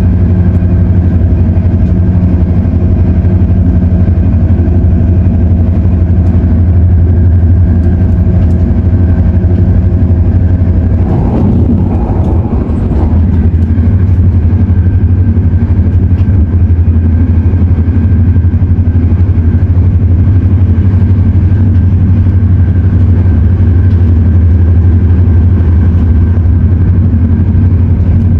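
Onboard running noise of an MTR Airport Express CAF-built train: a loud, steady low hum with steady whining tones. The tones shift briefly about eleven seconds in.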